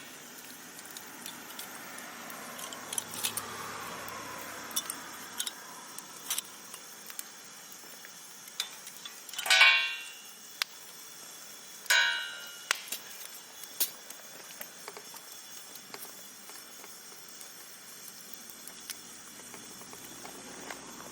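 Wood campfire crackling, with scattered small pops and two louder snaps about ten and twelve seconds in.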